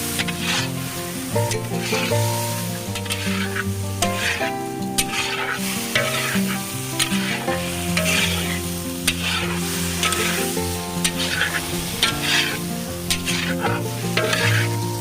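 Chicken mince frying in spiced masala in a pan, sizzling as it is stirred in repeated strokes, over background music.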